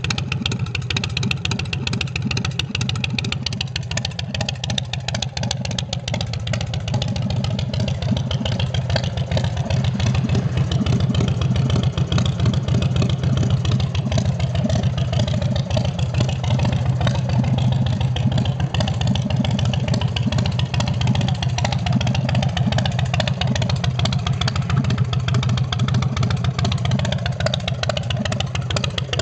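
Big Dog Mastiff's carbureted 117 cubic inch S&S V-twin running steadily through 2-into-1 drag pipes, a fast, even exhaust pulse at about idle speed. It gets a little louder partway through and eases back near the end.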